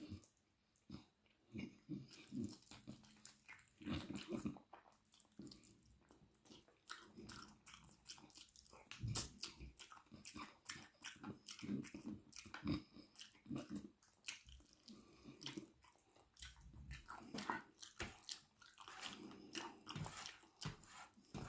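Close-miked eating: irregular biting and chewing with wet mouth clicks and smacks, and now and then a crunchier bite.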